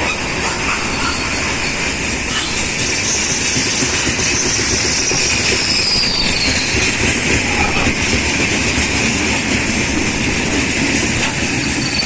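Freight train wagons rolling through the station, their wheels clattering steadily on the rails with a high wheel squeal over it.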